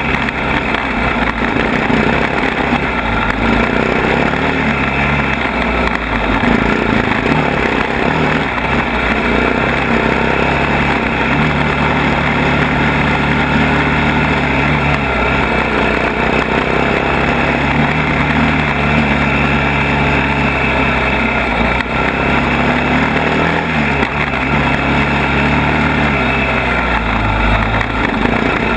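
ATV engine running on a trail ride, its pitch stepping up and down with the throttle, over a steady rush of ride noise.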